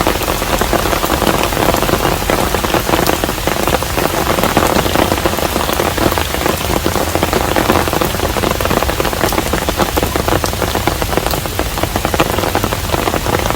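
Steady rain falling on a hanok, Korean traditional house: a dense, even hiss speckled with many small drop ticks.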